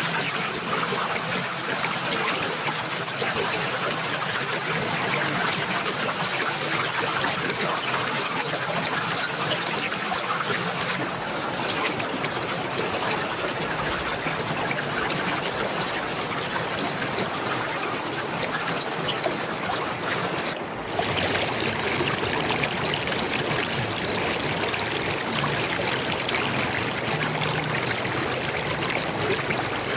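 Running water trickling and flowing steadily, with a brief dip in level about two-thirds of the way through.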